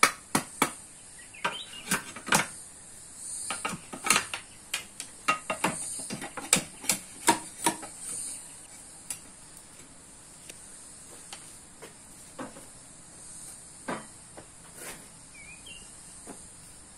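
A series of sharp knocks, irregular for about the first eight seconds and then only now and then, over a steady high-pitched hiss.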